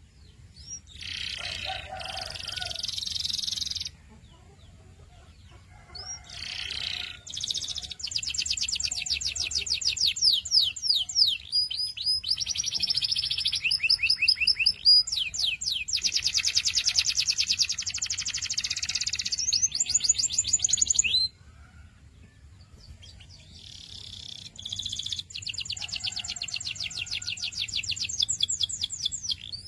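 Domestic canary singing: long phrases of fast repeated high notes, trilled rolls that change speed from phrase to phrase, broken twice by short pauses.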